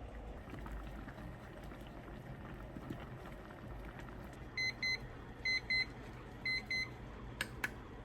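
Electronic beeper sounding three pairs of short high beeps about a second apart, then two sharp clicks near the end.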